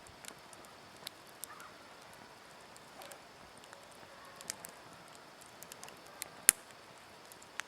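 Wood campfire crackling: irregular sharp snaps and pops over a faint steady hiss, with one loud pop about six and a half seconds in.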